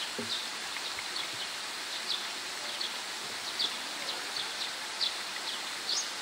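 Short, high chirps of small birds repeating irregularly, about twice a second, over a steady background hiss.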